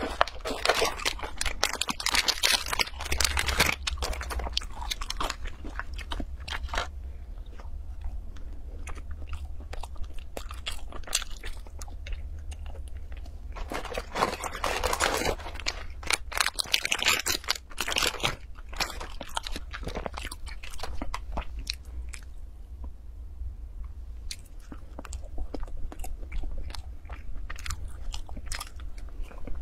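Close-up chewing and crunching of food: granola, nuts and fruit from a yogurt bowl being bitten and chewed, a dense run of crisp crackles and clicks. The crunching is loudest near the start, about halfway through and a few seconds later, and quieter chewing fills the gaps.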